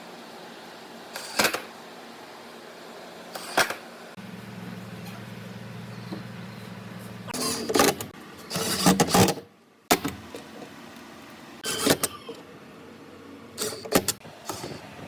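Workshop knocks and clatters: single sharp hits about every two seconds and a rapid cluster of them in the middle, with a low electric hum for about three seconds before the cluster.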